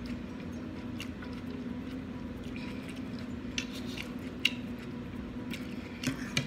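Close-miked chewing with soft wet mouth clicks scattered irregularly, over a steady low electrical hum.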